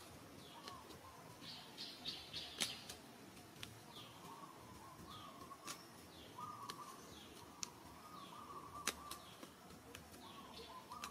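Faint bird chirps, short falling notes repeating about every second, with a few sharp clicks scattered through.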